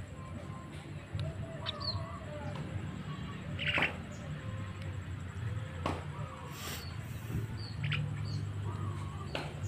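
Javan myna (jalak kebo) calling: scattered short whistled notes and brief high chirps, with a few sharp clicks, over a steady low hum.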